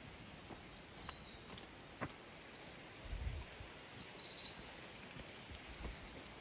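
A songbird singing one long, rapid high-pitched song of trills that jump up and down in pitch, starting about half a second in and running several seconds.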